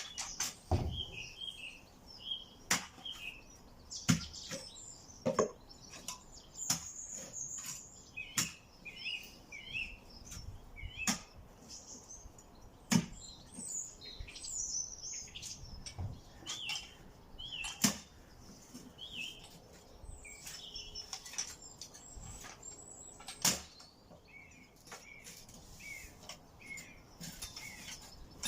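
Small birds chirping and twittering steadily, with irregular sharp knocks and clatters every few seconds, typical of timber being handled and struck during decking repair work.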